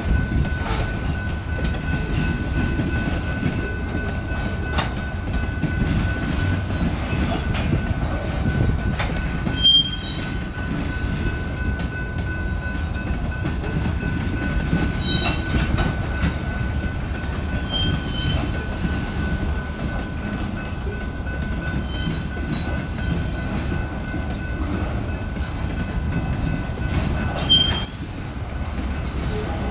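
Freight cars of a slow manifest train, mostly covered hoppers, rolling past at a grade crossing: a steady rumble and clatter of wheels on the rails. Brief high-pitched wheel squeals come through several times, the loudest about ten seconds in and near the end.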